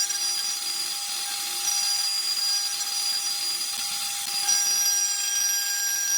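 CNC wood lathe running, giving a steady high-pitched whine over a hiss of machining; a second, higher whine joins about four and a half seconds in.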